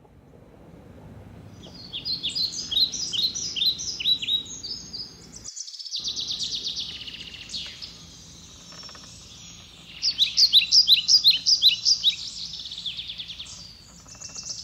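Songbirds singing: runs of quick, falling chirps, loudest from about two seconds in and again from about ten seconds, with a faster trill between, over a low steady outdoor rumble.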